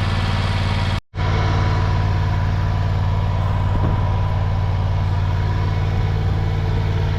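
An engine idling steadily, with a sharp break lasting a fraction of a second about a second in.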